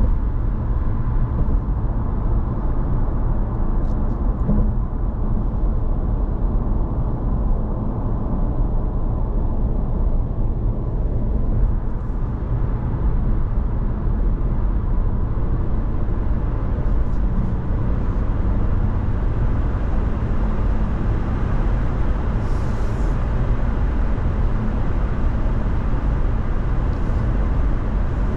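Steady road and engine noise inside a moving Honda ZR-V, an even, unchanging rumble.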